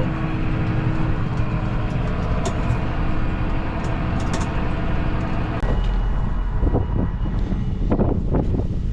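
A vehicle engine running steadily. About five and a half seconds in, the sound changes abruptly to a deeper rumble with wind gusting on the microphone.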